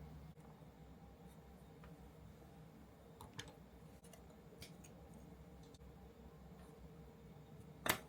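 Faint, sparse clicks of small kit parts and tools being handled during the assembly of an R/C truck model kit: a couple about three and a half seconds in, one near five seconds, and a sharper, louder click near the end, over a faint steady hum.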